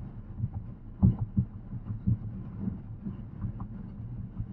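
Low, irregular dull thuds over a steady low hum inside a slow-moving car's cabin.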